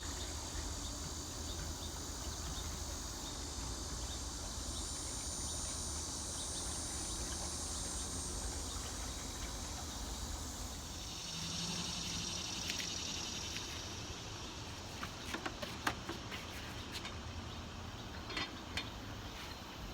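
Insects chirring in a steady high drone over a low steady rumble, with a few sharp clicks and knocks in the last few seconds.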